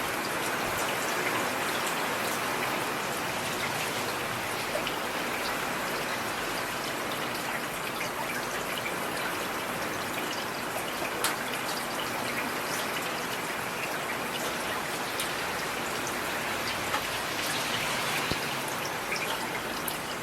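Steady rain: a dense, even hiss with many scattered close drops ticking.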